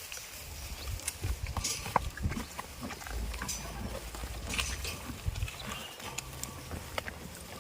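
Goats moving about at close range: a run of scattered clicks and knocks over a low rumble, with no clear bleats.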